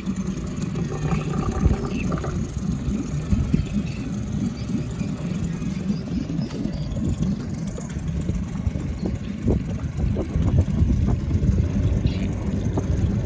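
Small motorboat's engine running steadily, a rough low rumble with irregular knocks.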